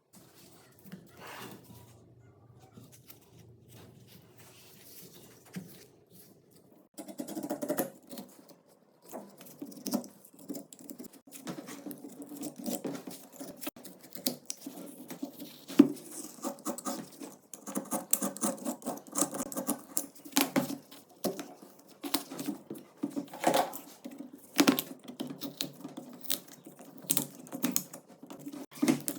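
Irregular light clicks, taps and scrapes from handling the rusty 12-bore shotgun's metal parts. The sound is faint for the first several seconds, then becomes busy and dense.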